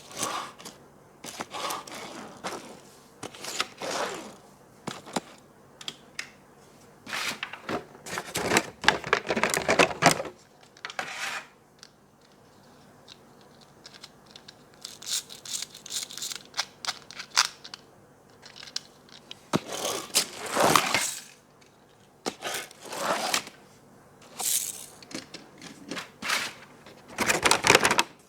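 Hands opening toy packaging: irregular bursts of plastic and cardboard rustling, scraping and tearing, loudest in clusters about 8 to 10 seconds in, around 20 seconds in and near the end.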